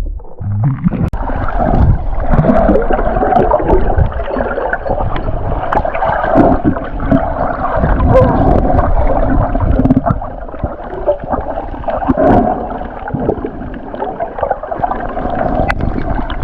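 Muffled water gurgling and rumbling close to the camera, with scattered knocks.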